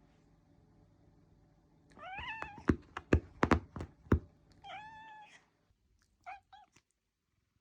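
Domestic cat meowing: a rising meow about two seconds in, another drawn-out meow around five seconds, then two short chirp-like calls. Several sharp thumps fall between the first two meows and are the loudest sounds.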